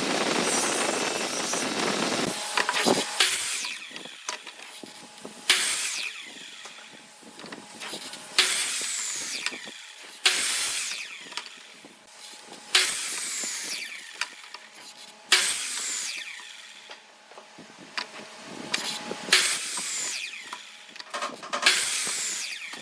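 Tool working wood: a couple of seconds of steady dense noise, then a series of separate strokes about every two to three seconds, each starting sharply and fading away.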